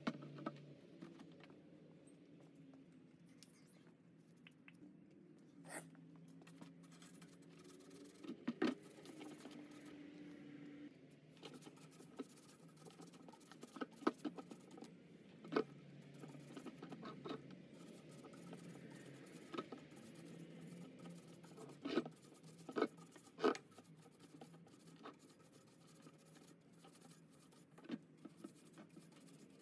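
A brush scrubbing the blades of a dirty furnace blower wheel: a soft, uneven scratching with scattered sharp clicks and knocks.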